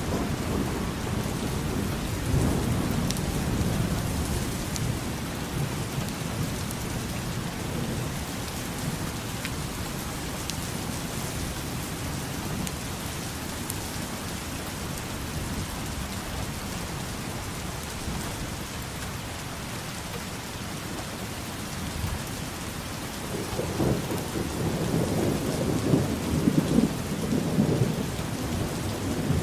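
Steady rain falling, with low rolling rumbles of thunder swelling near the start and again over the last several seconds.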